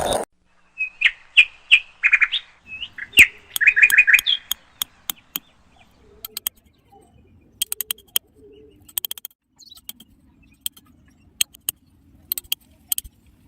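A bird chirping in short, quick calls for the first few seconds. Scattered sharp clicks and taps follow.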